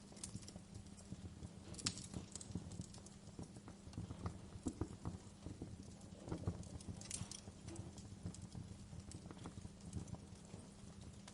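Wood fire crackling: irregular snaps and pops over a low steady rumble of burning, with sharper pops about two seconds in and again about seven seconds in.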